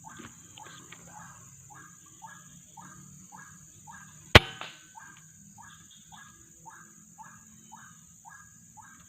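White-breasted waterhen (kruok) calling: a fast, even run of short, falling notes, about two to three a second. About four and a half seconds in there is a single loud, sharp crack.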